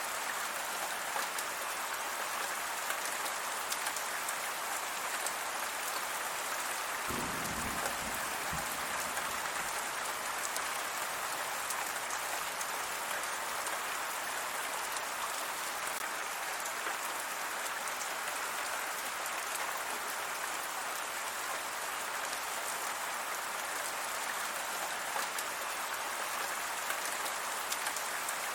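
Steady rain falling, an even hiss of many drops. A brief low rumble comes about a quarter of the way through.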